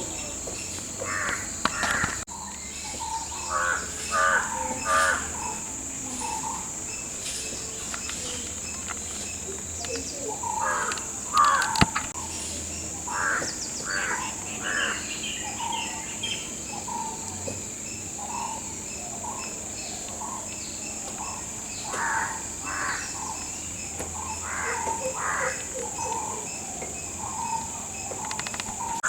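Birds calling outdoors: short calls come in clusters of two or three, again and again, over a steady high-pitched drone.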